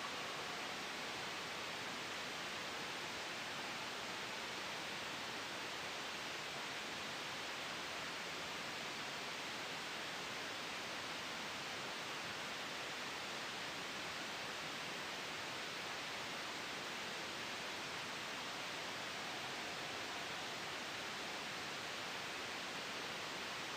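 Soft white noise blended with a gentle wind ambience: a steady, even hiss that holds constant throughout, with no gusts, breaks or sudden changes.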